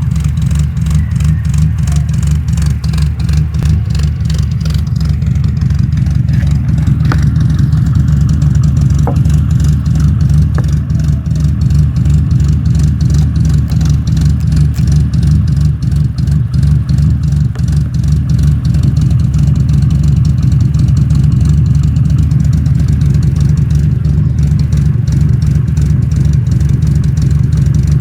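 Car engine idling with a steady, deep exhaust rumble.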